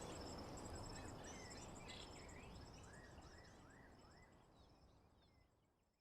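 Nature-ambience track of insects trilling steadily, with a bird giving a run of short rising-and-falling chirps midway and a low rumble beneath. The whole bed fades out gradually, reaching silence at the end.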